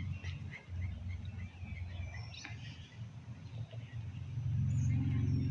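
Small songbirds chirping in short, quickly repeated notes, fading after the first second or two, over a steady low rumble that grows louder near the end.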